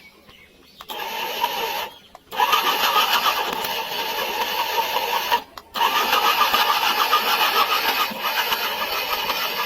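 Small DC gear motor of a homemade RC tractor whirring as it drives, starting about a second in and cutting out briefly twice.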